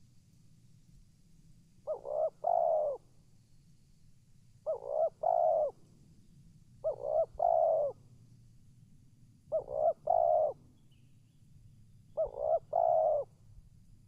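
Spotted dove cooing, five times about every two and a half seconds. Each call is a quick pair of short coos followed by a longer, fuller coo.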